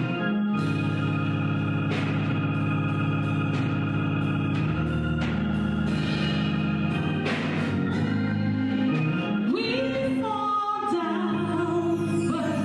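Organ music holding long sustained chords, with a voice singing over it near the end.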